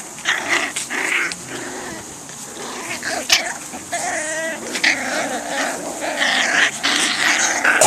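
Swedish Vallhund puppies, five to six weeks old, growling and whining in short irregular bursts, with a few wavering little cries and scattered sharp clicks.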